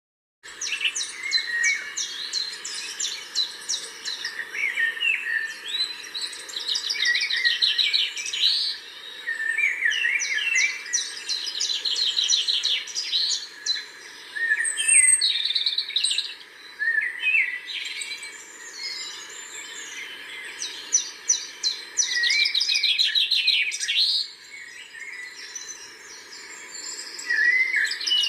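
Several birds singing and calling at once: rapid trills and repeated chirps, overlapping and coming in waves, over faint steady background noise.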